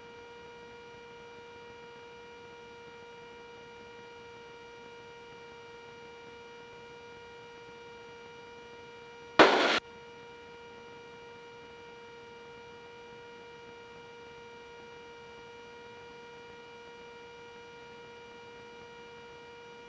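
Steady pitched electrical hum with a ladder of overtones on the Cessna 310's intercom and radio audio feed. About halfway through there is a single short, loud crackle of noise.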